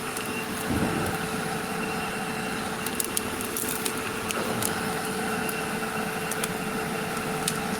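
Wood-fired forge running: a steady rushing hum with a constant low tone, and scattered sharp crackles from the burning wood.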